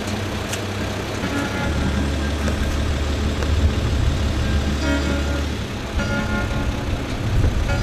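A truck engine running steadily, with a low hum that is strongest through the middle.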